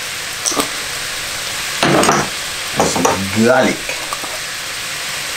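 Prawns frying in a wok in oil and soy sauce, with a steady sizzle. A brief louder rush comes about two seconds in.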